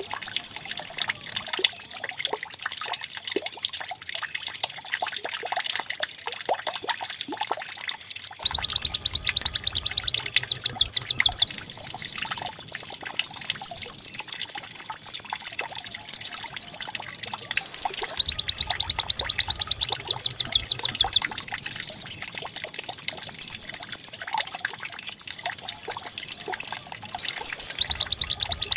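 Recorded white-eye (pleci) song used as a lure to get caged birds singing. It is a loud, fast series of high repeated notes with sweeping canary-like rolls, and the same phrase repeats as a loop about every nine seconds. For the first several seconds there are only faint, soft chirps.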